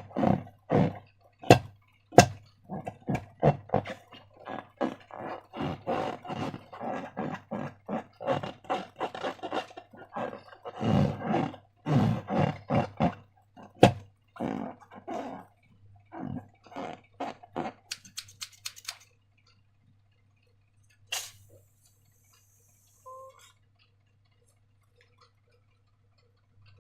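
Slime being squeezed and worked by hand: quick, irregular wet squelches and small pops, stopping about two-thirds of the way through, after which there are only a couple of faint isolated sounds.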